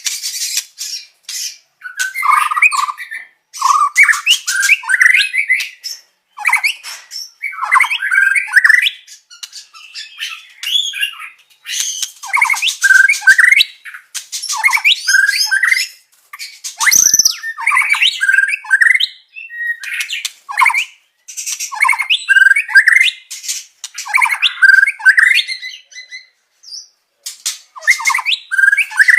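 White-rumped shama (murai batu) singing a loud, varied song in quick, rapidly changing phrases broken by short pauses, mixing clear whistles with harsh chatters. It is a 'masteran' song mixed with phrases of other songbirds such as the cililin, canary and konin.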